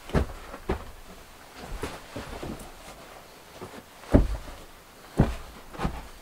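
A series of irregular knocks and thuds, roughly one every second, the loudest about four and five seconds in.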